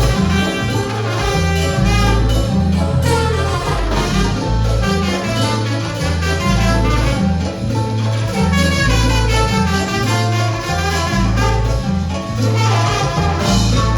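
Salsa band playing live in an instrumental passage, with brass over a bass line that steps between held low notes.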